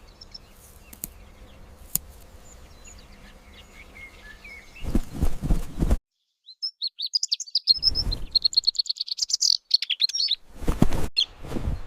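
Bird chirping in quick high notes, faint at first and then a dense rapid run of chirps in the middle, broken by several loud bursts of noise.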